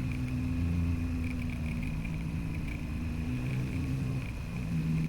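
Motorcycle engine running under way at a steady road speed. Its note dips and then picks up again near the end.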